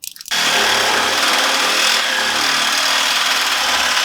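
Loud, steady machine noise, like an engine held at high revs or a power tool running, that starts abruptly just after the start and holds level for about four seconds before cutting off.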